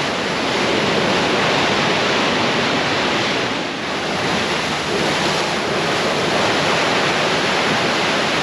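Steady, loud rush of stormy wind and sea surf, with wind buffeting the microphone.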